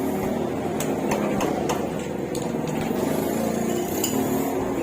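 Sharp taps of a tool on metal, about six of them spread irregularly over a few seconds, over a steady background din from the shop.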